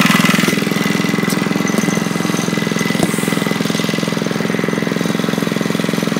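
Monster Moto 80cc minibike's small single-cylinder four-stroke engine running just after being started, easing down slightly in the first second or two and then running steadily with a fast, even beat.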